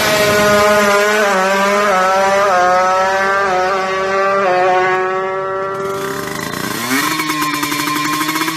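Kawasaki Ninja 150 two-stroke single-cylinder engine revving, its pitch climbing in a series of short blips, then dropping back. About six seconds in, another recording of the engine cuts in and revs up again.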